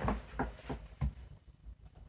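A few faint, short taps and rustles, about four in the first second, from hands handling hair and styling things, then only low room noise.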